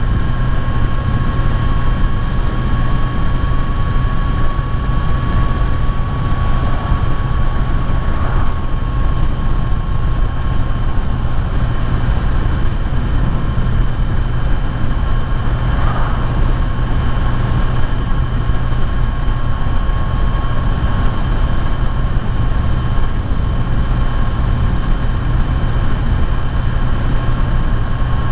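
Kawasaki Z900's inline-four engine running at a steady cruising speed, holding an even engine note with little change in pitch.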